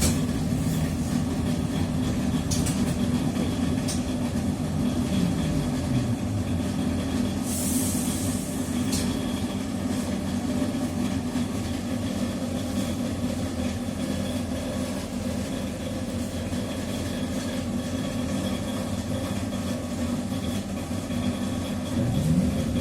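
Interior of a TrolZa-5275.05 Optima trolleybus in motion: steady rumble with traction motor and Ishimbay rear-axle whine. The whine falls in pitch early on as the trolleybus slows. A short hiss of air comes about a third of the way in, and near the end the whine rises steeply as it accelerates away.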